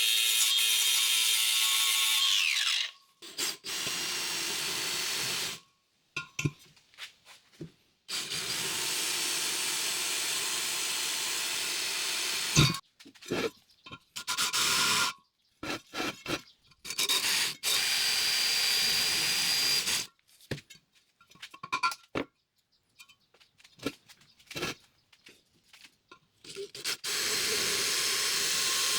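Handheld power tool run in repeated bursts of one to four seconds with short pauses and knocks between them, working the rivets of old hubcap clips off a steel wheel. The motor whine winds down about two and a half seconds in.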